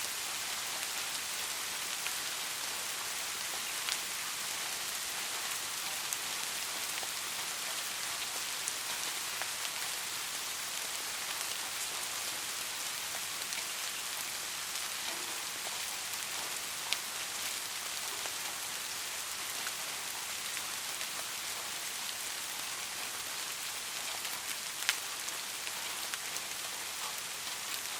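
Light rain falling steadily in a high, even hiss, with scattered drops ticking on a surface; a few drops land a little louder now and then.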